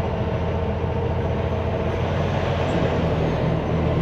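Semi-truck diesel engine running steadily, a constant low drone with no break.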